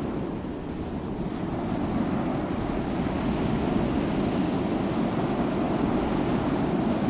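Sea waves washing on a shore: continuous surf noise, mostly deep, that eases slightly about a second in and then builds again.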